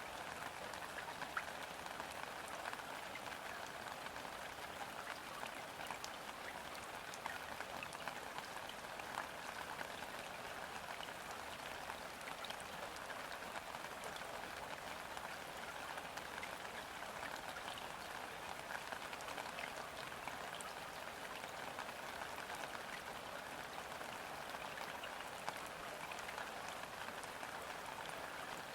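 Gentle rain falling steadily on a river's surface: an even hiss of dense, light drop patter that stays level throughout.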